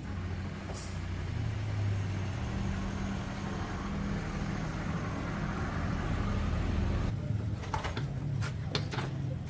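A motor-driven machine running steadily with a low drone; its sound changes about seven seconds in, and a few sharp clicks follow near the end.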